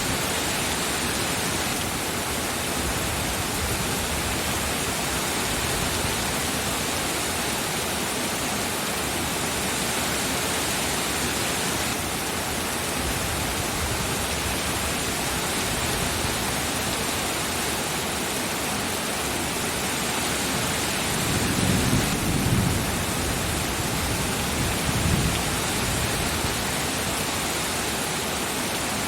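Steady heavy rain with a low rumble of thunder rolling in about two-thirds of the way through, swelling twice.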